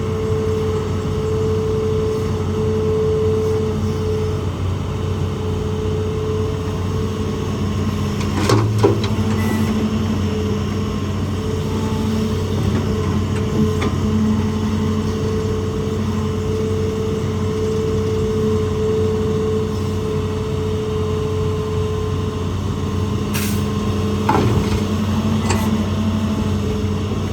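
Hitachi ZAXIS200 hydraulic excavator's diesel engine running steadily under load during rock work, with a few sharp knocks of the bucket on rock, the loudest about eight and a half seconds in and near the end.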